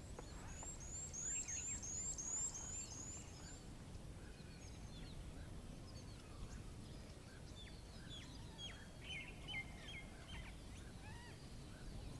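Several wild birds singing and calling: a fast run of high, repeated chirps in the first few seconds, then scattered chirps and a short series of notes later on, over a low steady rumble of background noise.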